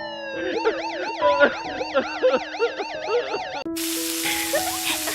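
Police car siren wailing in a fast, even up-and-down warble over soft background music. About three and a half seconds in it cuts off and a steady hiss takes over.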